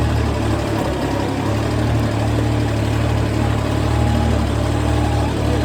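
A motor or engine running steadily at idle: a loud, unchanging low hum with a few steady tones.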